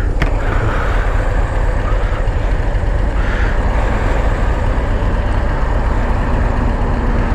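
Harley-Davidson Road Glide CVO ST's Milwaukee-Eight V-twin running steadily at cruising speed, heard from the rider's seat under a steady rush of wind noise.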